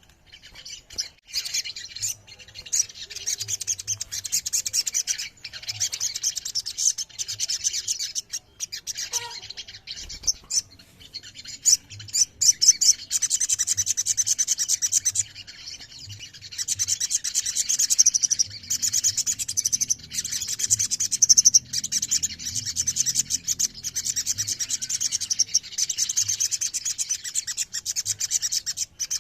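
Sogon sunbird singing: long runs of fast, high-pitched chattering trills, broken by short pauses.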